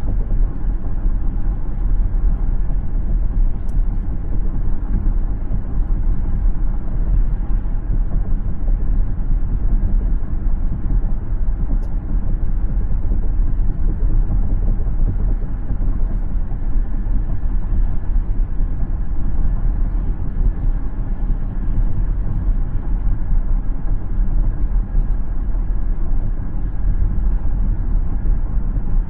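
Steady low rumble of a car driving, its tyres and engine heard as one even road noise from the moving vehicle.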